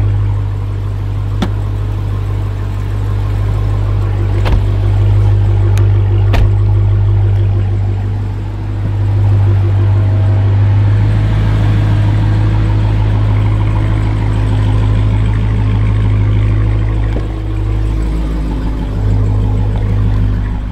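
Dodge SRT Hellcat's supercharged 6.2-litre HEMI V8 idling steadily, with a few faint clicks or knocks in the first seven seconds.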